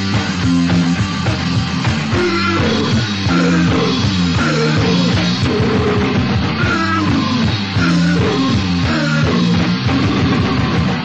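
Crust punk band recording: heavily distorted guitars over steady bass notes and fast drums.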